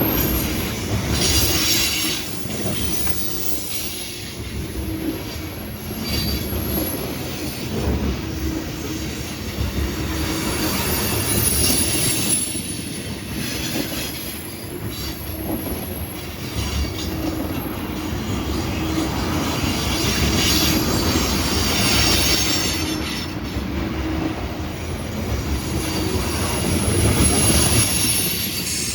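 Freight train cars rolling past, with a steady rumble and high, thin wheel squeal that comes and goes.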